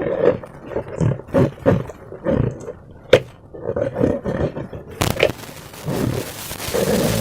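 Slime squelching and squishing in irregular wet spurts, with a sharp click about three seconds in. About five seconds in there is a sharp snap, and a steady hiss follows.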